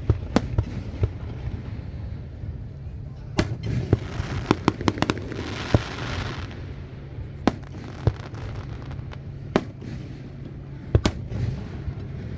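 Fireworks display: sharp aerial shell bursts at irregular intervals. Several come in quick succession with a sizzling crackle about four to six seconds in. A steady low rumble runs underneath.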